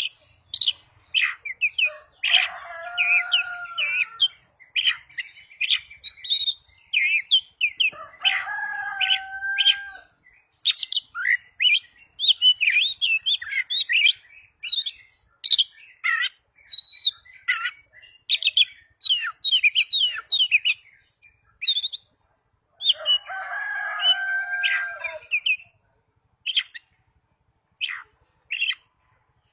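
Oriental magpie-robin singing: a fast run of varied chirps and whistles, broken three times by longer, lower drawn-out notes, thinning to a few scattered chirps near the end.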